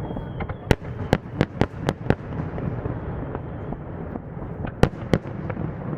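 Fireworks bursting: a quick run of six sharp bangs about a second in, then two more near the end, over a steady low background rumble.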